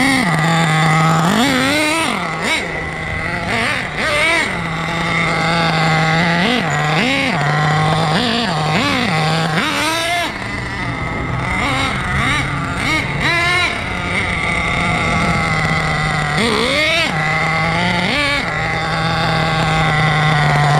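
HPI Savage X4.6's small nitro engine sitting at a steady low idle, blipped up about ten times with short revs, some in quick pairs, and dropping straight back to idle after each.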